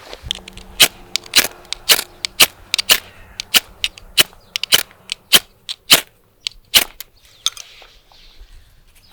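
A regular series of sharp knocks or chops, about two a second, thinning out and stopping about seven seconds in.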